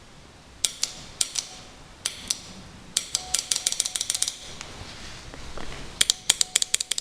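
Solenoid fuel valve of a D-240 diesel's electric flame preheater clicking sharply as it is switched on and off: a few single clicks, then rapid runs of clicks about three seconds in and again near the end. The clicking shows the rewound coil is pulling the valve open to let diesel through.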